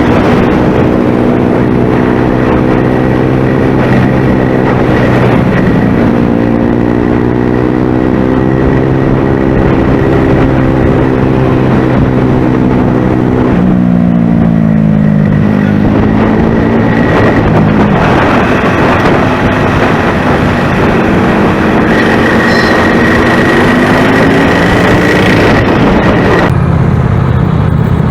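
Motorcycle engine running while riding, its pitch rising and falling several times with the throttle, over steady wind and road rush.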